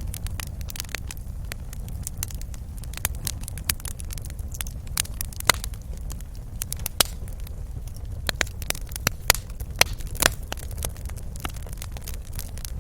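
Wood fire in a fireplace crackling, with irregular sharp pops over a soft low rumble of the flames; a few louder pops, the biggest about five and a half, seven and ten seconds in.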